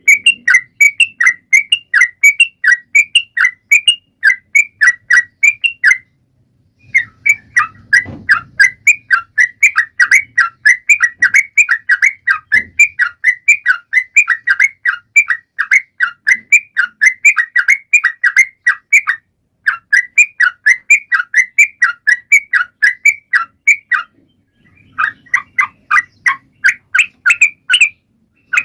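Trucukan (yellow-vented bulbul) singing hard: a fast, unbroken run of short, bright notes, about five a second, in long phrases with a few brief pauses. A couple of faint low thumps come in the first half.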